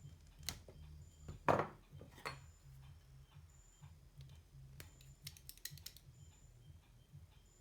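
Small clicks and taps of tools, wires and parts being handled on an electronics workbench: a louder knock about a second and a half in and a quick run of light clicks around the middle, over a steady low hum.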